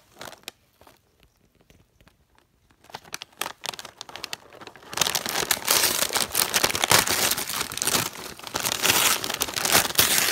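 Gift wrapping paper crinkling and tearing: a few scattered crackles after a near-quiet start, then dense, continuous crinkling from about halfway through.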